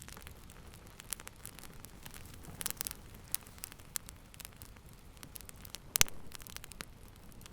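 Wood fire crackling in a fireplace: a low steady hiss with scattered sharp pops and snaps, a quick run of them near the middle and one loud snap about six seconds in.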